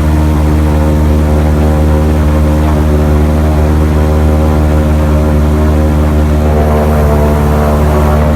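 Motorboat engine running steadily at constant speed, with a low, even drone.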